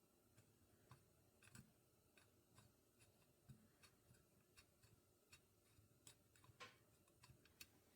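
Near silence with faint, irregular small clicks and taps from small metal carburetor parts being handled and worked during bench reassembly of a Rochester Monojet carburetor.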